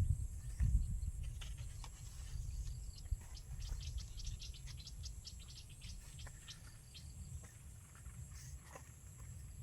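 Insects drone steadily at a high pitch. Under it is a low rumble, strongest in the first second, and a quick run of short ticks or chirps from about one to six seconds in.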